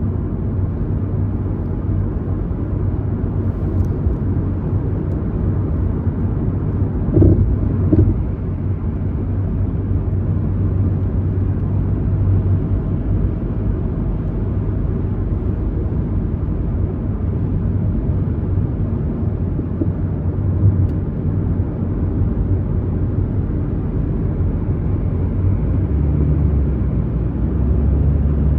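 Steady engine and road noise of a car cruising at highway speed, a constant low rumble, with a brief louder swell about seven seconds in.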